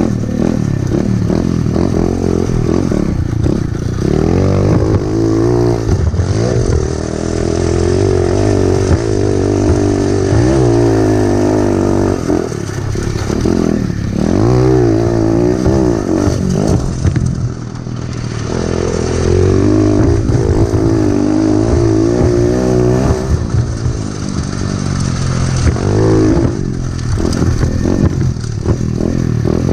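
Pit bike engine being ridden, revving up and easing off again and again. Its pitch climbs and then drops back many times over.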